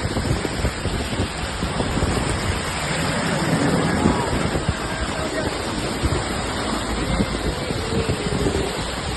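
Steady rushing noise of heavy monsoon rain and running water, with wind buffeting the phone's microphone.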